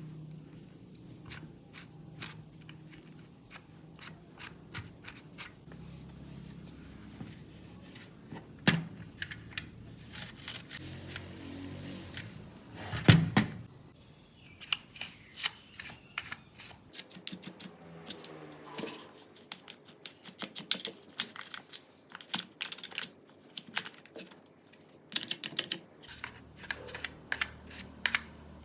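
Hands-on cleaning and handling noises: a long string of short clicks, taps, scrapes and rubbing strokes. There is one loud knock about 13 seconds in, and the clicks come thicker in the second half.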